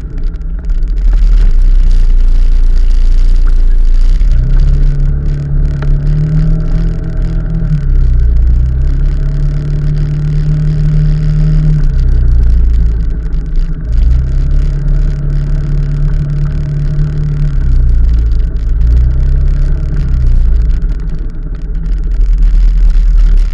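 Motor vehicle on the move: the engine pitch rises, holds and falls away about four times as it speeds up and eases off, over a loud, steady low road and wind rumble.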